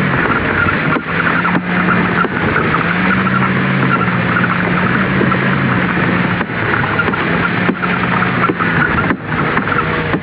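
Towing vehicle's engine running at a steady, unchanging pitch, under a constant loud rushing, scraping noise with a few brief dips.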